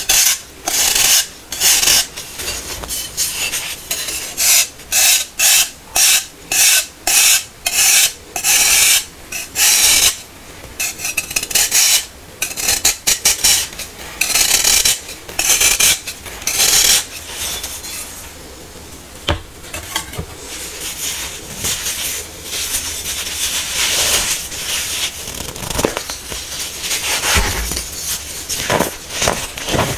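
Hardened baking soda being crushed: crisp crunches at about two a second, giving way after about seventeen seconds to steadier crumbling and grinding of the powder, with a few sharper crunches near the end.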